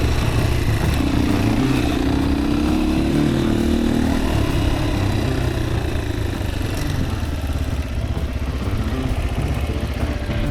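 Dirt bike engine running while riding a rough dirt trail; its note rises and holds clearly for a few seconds from about a second in.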